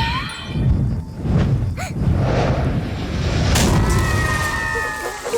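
Cartoon sound effects: a run of low booming rumbles with a sharp crash about three and a half seconds in, under background music.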